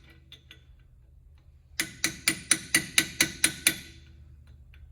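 Hammer blows on metal, a quick run of about nine sharp strikes at roughly four a second starting a little under two seconds in, bending a lock washer's tab over a truck front-hub spindle nut to lock it.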